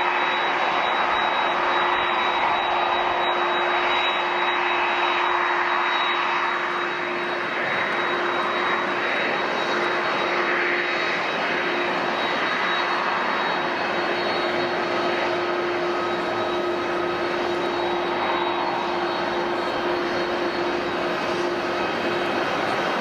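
Jet airliner engines running steadily: a broad rushing noise with a constant high whine and a lower hum held through it.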